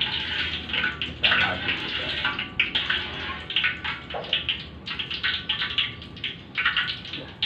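Food deep-frying in hot oil in a wok over a gas flame: a steady, crackling sizzle that swells and fades.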